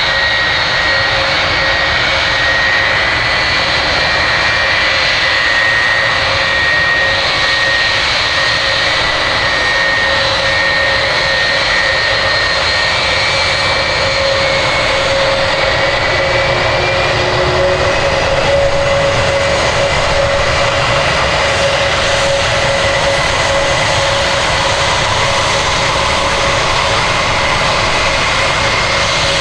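Jet airliner's engines running at taxi power: a steady rushing noise with a high held whine, unchanging in level.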